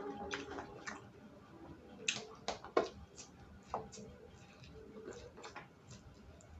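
Close-up eating sounds: chewing and crunching of raw vegetables, with a run of sharp clicks and crackles. The loudest cluster comes about two to three seconds in.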